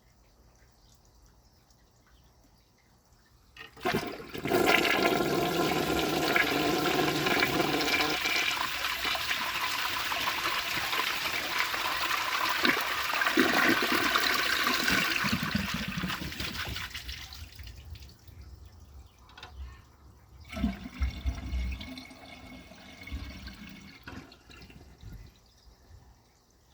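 A 1969 American Standard Cadet elongated toilet flushing. Water rushes loudly into the bowl for about twelve seconds, starting about four seconds in, then fades, and is followed by quieter gurgling as the toilet refills.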